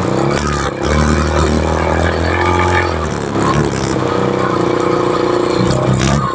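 Motorcycle engine running at light throttle while riding, its pitch shifting about three seconds in, over road and tyre noise.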